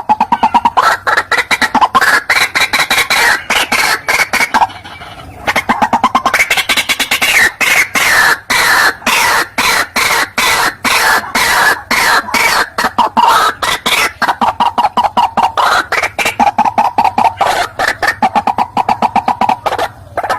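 Recorded lure call of the white-breasted waterhen (ruak-ruak): a fast, unbroken run of repeated calls, many a second, with a brief lull about five seconds in.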